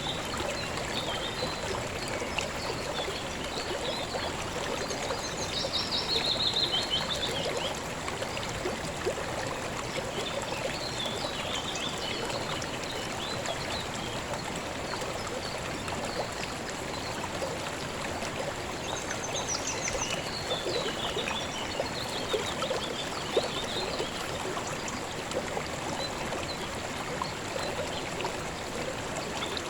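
River water flowing steadily, with birds chirping now and then above it: a quick run of high notes about six seconds in, and more chirps around twenty seconds in.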